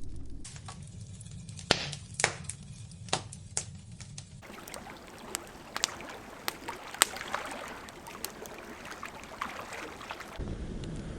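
A fire crackling, with sharp, irregular pops over a steady hiss; the background changes abruptly about four seconds in and again near the end.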